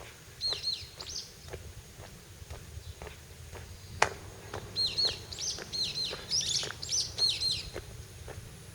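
Footsteps walking at a steady pace, about two a second, while a small bird chirps in quick runs of short high hooked notes: a brief run near the start and a longer one through the second half. A single sharp click about halfway through is the loudest sound.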